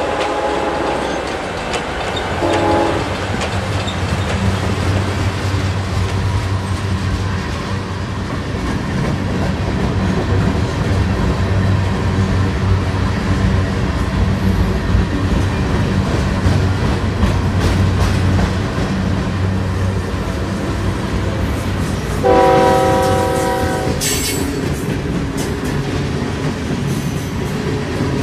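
Train running sound with a steady low rumble, broken by a short horn toot a couple of seconds in and a longer, louder horn blast about 22 seconds in.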